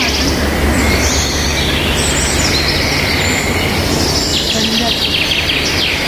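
Woodland birds chirping and whistling over a steady background noise, with a fast trilling song near the end.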